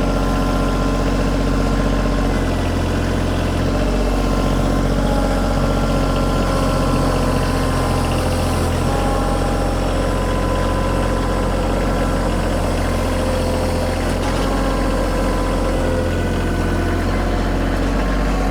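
Kioti compact tractor's diesel engine running steadily at a constant speed.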